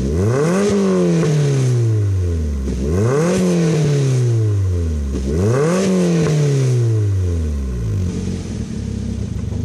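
Toyota Vitz exhaust through a GP Sports EXAS EVO Tune aftermarket muffler, revved three times, each rev climbing quickly and falling away more slowly, then settling to a steady idle near the end.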